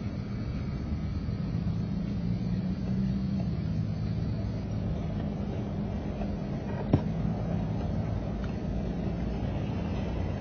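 A steady low mechanical hum and rumble, with one sharp click about seven seconds in.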